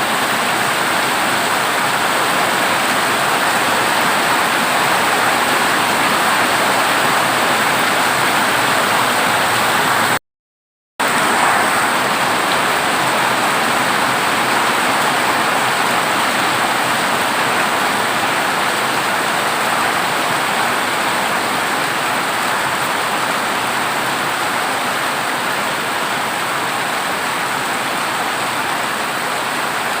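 Heavy rain on a corrugated zinc roof, a steady dense hiss of drops. About ten seconds in, the sound cuts out completely for under a second, then resumes.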